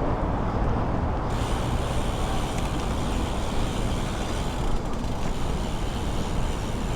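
Bicycle riding noise: tyres rolling and the bike's parts rattling in a steady, unbroken noise, which grows hissier about a second in.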